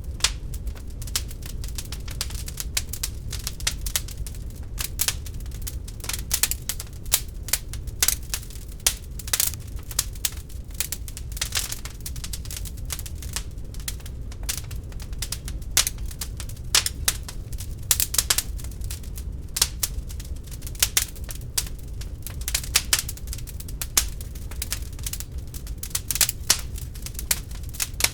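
Wood fire burning in an open fireplace, crackling with many sharp irregular pops and snaps over a low steady rumble of the flames.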